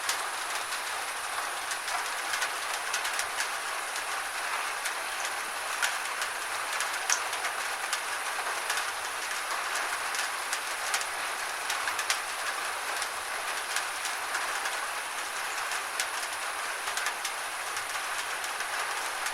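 Gentle rain falling steadily: an even hiss with many scattered, irregular drop ticks.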